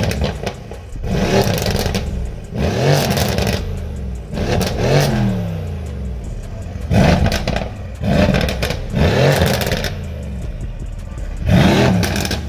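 Mercedes-AMG C63 S twin-turbo V8 with aftermarket downpipes being revved while parked: a string of about eight sharp blips, each rising and falling in pitch, with the engine settling back to idle between them.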